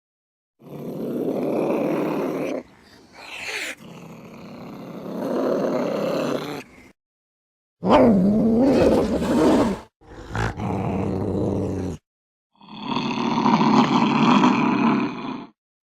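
Angry domestic cats growling and yowling in threat. The sound comes as about five separate bursts of a few seconds each, with short dead-silent gaps between them, and one yowl near the middle wavers up and down in pitch.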